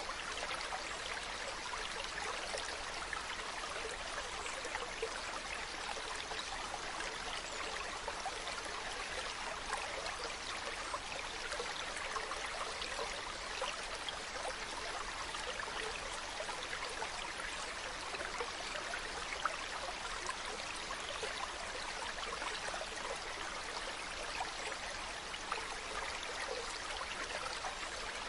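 Mountain stream running steadily over rocks, a continuous rush of water with fine bubbling and trickling.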